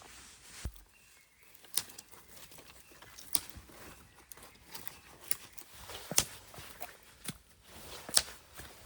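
Dry twigs and leaf litter crackling and snapping as firewood is gathered on a wooded slope, with irregular sharp cracks, the loudest four spaced about two seconds apart.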